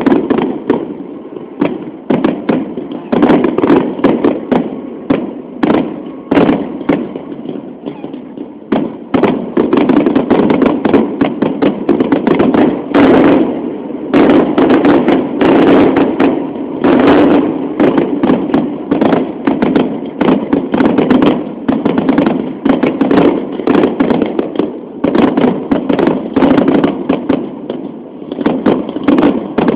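Aerial fireworks display: shells bursting one after another in quick bangs, fairly spaced at first and merging into an almost unbroken barrage from about a third of the way in.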